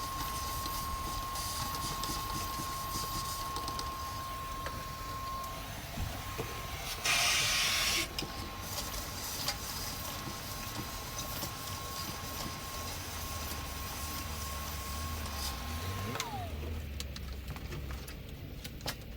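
A small motor whining at a steady pitch, then winding down and stopping near the end, with a loud hiss lasting about a second partway through.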